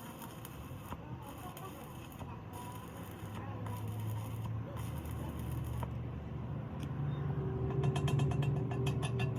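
A motor or engine running with a steady low hum that grows louder, joined near the end by rapid, evenly spaced ticking.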